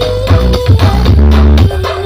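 Very loud electronic dance music blasting from a giant 'horeg' street sound system, with heavy, sustained bass and a steady beat.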